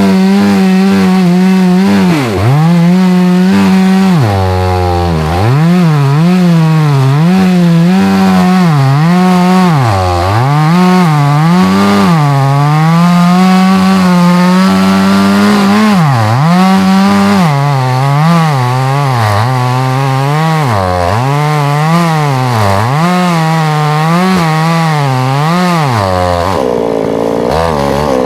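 Chainsaw cutting oak firewood at high revs, its pitch sagging and recovering again and again as the chain bites into the wood. About 26 seconds in it drops back to a lower, steadier idle.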